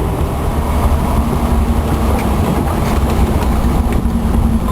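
A car driving uphill, its engine hum held steady under a rumble of the ride.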